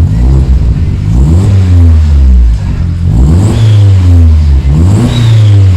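Audi TT MK2 engine through a custom 3-inch decat downpipe and full stainless exhaust with a dual-exit back box, revved about three times, its pitch rising and then falling back.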